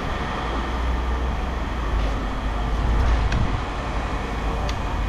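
Steady low rumble of heavy machinery running, with a couple of sharp metal clinks near the end.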